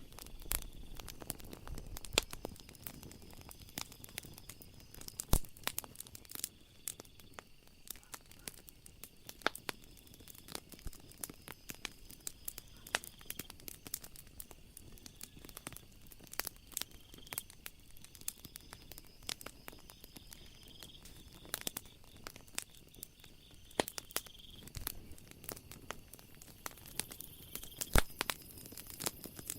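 Wood fire crackling, with irregular sharp pops and snaps, a few much louder than the rest. Behind it runs a faint steady high chirring of night insects.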